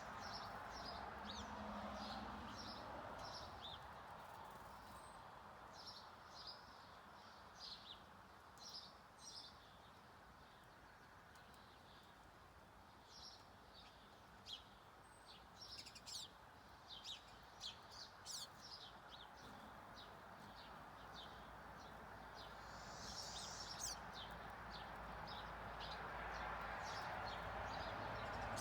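Finches chirping: short, high chirps scattered throughout, coming in quicker runs in the middle, over a faint steady background hiss.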